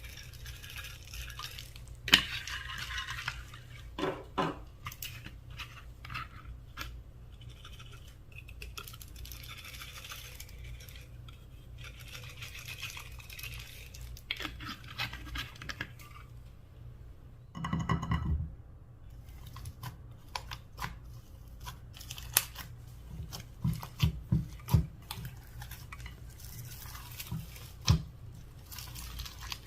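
Slime being worked by hand: sticky crackling, scraping and small clicking pops, with one louder squelch lasting about a second near the middle. A steady low hum runs underneath.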